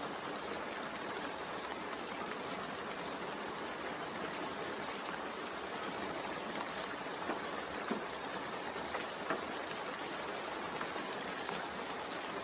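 Steady rain falling, an even hiss with a few faint drop ticks in the middle.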